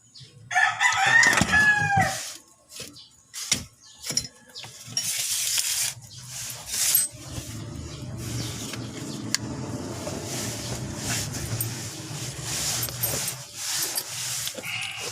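A rooster crows once, about half a second in, lasting about a second and a half. Scattered knocks follow, then from about five seconds in a steady low hum with clatter.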